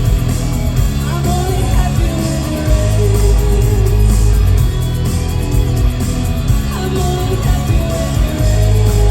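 Live rock band playing loudly, with a woman singing over electric guitars and heavy bass, as heard from the audience.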